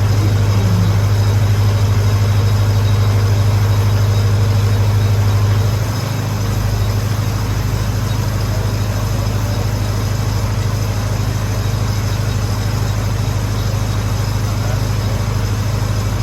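Lincoln SA-200 engine-driven welder's gas engine running steadily with a strong low hum, dropping slightly in level about six seconds in.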